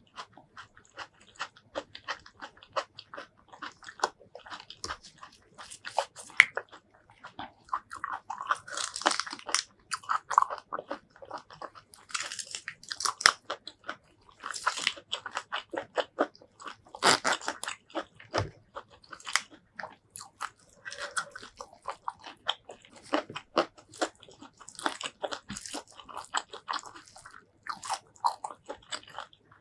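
Close-miked chewing and biting, with crisp crunches mixed with softer mouth sounds in irregular runs, as a mouthful of curry rice and raw vegetables is eaten.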